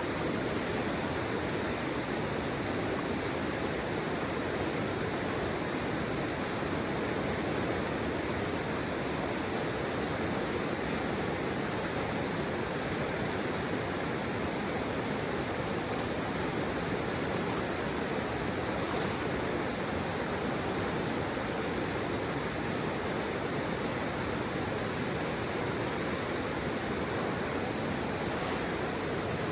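Flowing river water blended with pink noise: a steady, even rushing hiss with no distinct splashes or changes.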